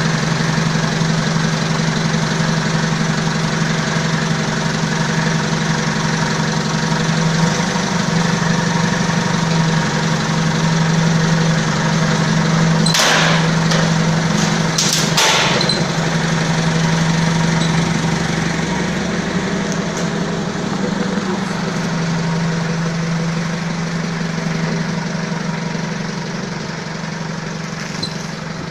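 Balkancar forklift's diesel engine running steadily after its overhaul. A few sharp knocks come about halfway through, and the engine sound eases slightly toward the end.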